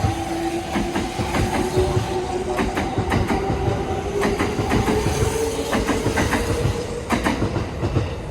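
Electric train running past at the platform, its wheels clacking repeatedly over rail joints, with a motor whine that rises slowly in pitch.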